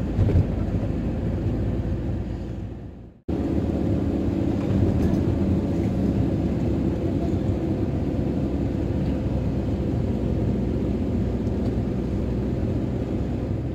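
Camper van on the road: a steady engine and road rumble heard from the van. It fades out about three seconds in and comes straight back.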